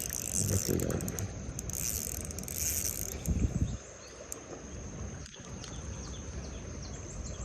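Fishing reel being wound in with a clicking rasp, in bursts over the first three seconds, as a hooked fish is brought in; a loud low knock about halfway through, then a steady high insect drone.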